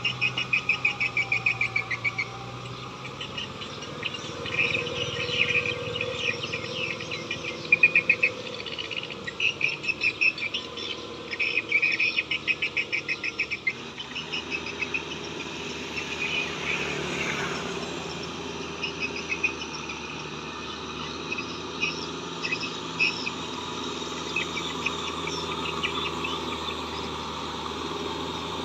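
A chorus of frogs and insects chirping in rapid trains of pulses, loudest and densest in the first half, over the steady low running of a tractor's diesel engine.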